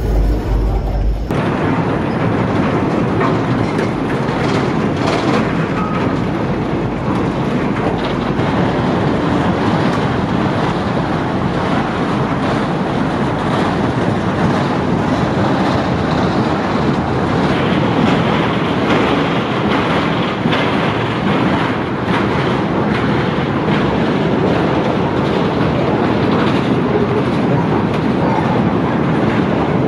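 Continuous welded rail train's flatcars, loaded with long steel rails in racks, rolling past close by: a steady rumble of steel wheels on the track with frequent clicks.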